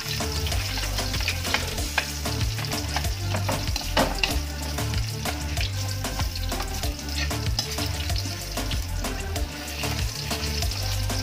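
Chopped garlic sizzling in hot oil in a wok, with a metal spatula stirring and scraping against the pan in frequent clicks and scrapes, the sharpest about four seconds in.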